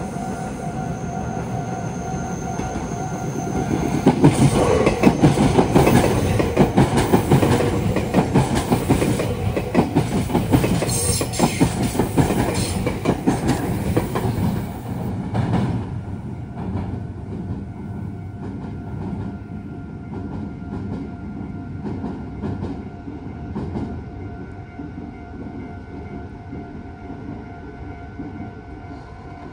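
Meitetsu electric train passing over the junction's points, its wheels clacking rapidly over the rail joints. The clacking builds about four seconds in, is loudest for some ten seconds, then fades away.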